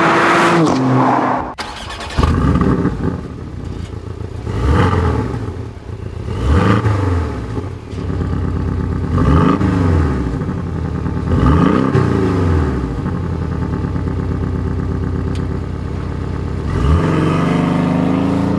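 Porsche 718 Cayman's turbocharged 2.0-litre flat-four engine being driven, its note climbing and falling away again about four times as it accelerates and backs off.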